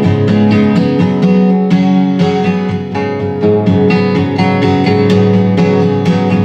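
Acoustic guitar strummed in a steady rhythm with sustained chords, an instrumental break between sung verses of a country-style song.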